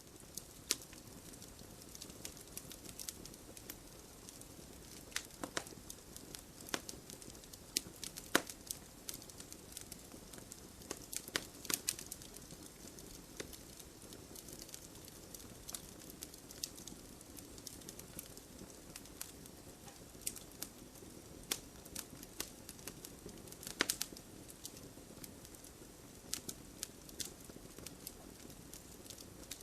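Wood campfire crackling: irregular sharp pops and snaps, a few of them louder, over a steady low rush of the burning fire.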